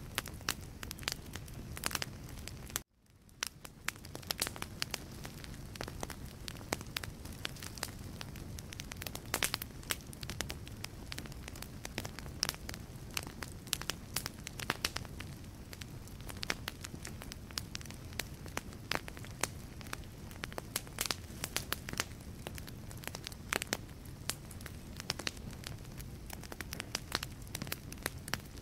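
Wood logs burning in a fireplace, crackling with frequent irregular sharp pops over a steady low rush of flame. About three seconds in the sound drops out almost to silence for a moment, then fades back up.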